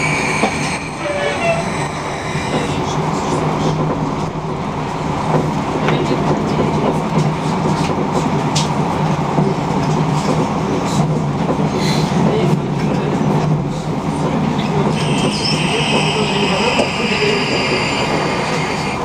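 Passenger train running, heard from inside the carriage: a steady rumble of wheels on rails. A high-pitched squeal comes in near the end.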